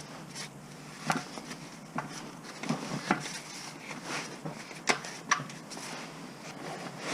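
Tools and parts being handled during work on a van: scattered light knocks and clinks, with the two sharpest about five seconds in, under half a second apart.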